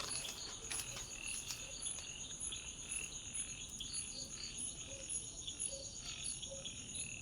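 Night chorus of crickets: a steady, fast high trill, with short calls repeating a little over once a second beneath it.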